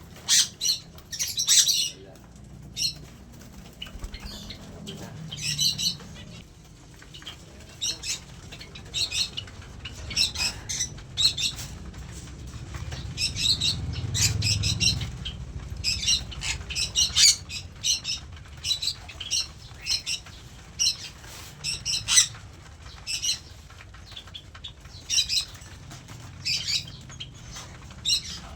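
Caged aviary birds (cockatiels, lovebirds, Java sparrows) giving short, shrill chirps and squawks every second or so, with wing flapping and a low rumbling stretch about halfway through.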